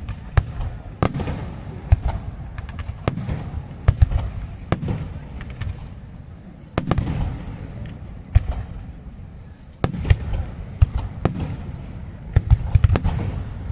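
Aerial fireworks display: a steady run of sharp bangs from bursting shells, each trailed by a low rolling rumble, with a quicker cluster of bangs near the end.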